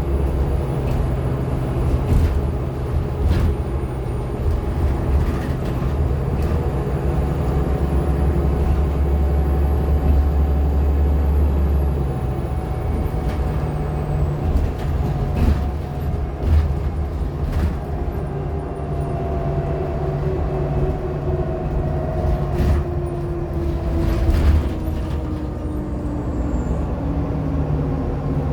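Interior of a Nova Bus LFSA hybrid articulated bus under way: a steady drivetrain hum with rattles and knocks. A faint, thin high-pitched whine slides down and fades about halfway through. Near the end several mid-pitched tones fall in pitch as the bus slows.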